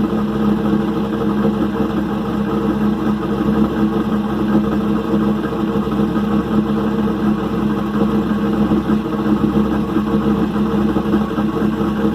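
LS1 5.7-litre V8 of a 2001 Camaro SS, fitted with new cylinder heads and cam, idling steadily just after a cold start. It is not running right: the owner takes it for major exhaust leaks and other funny noises.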